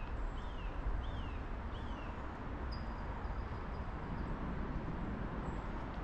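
Birds calling over a steady rushing background: a run of short down-slurred chirps repeated under a second apart, then thin high whistled notes from about three seconds in.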